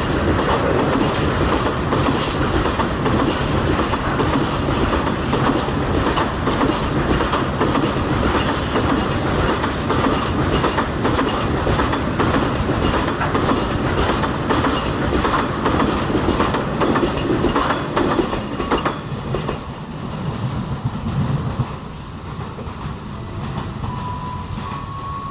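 A train passing at speed, its wheels clattering over the rail joints in a steady run of clicks, then dropping away and fading near the end.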